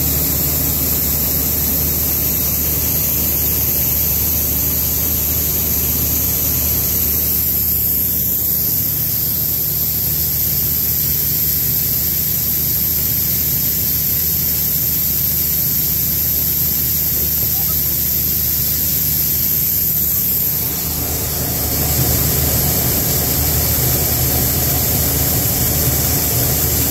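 Combine harvester running steadily at working speed, a constant engine and machinery drone with a high hiss over it; the sound shifts and gets slightly louder about 21 seconds in.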